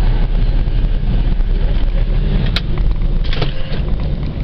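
Steady low engine rumble on board a car ferry, with a sharp click about two and a half seconds in and a short rattle about a second later.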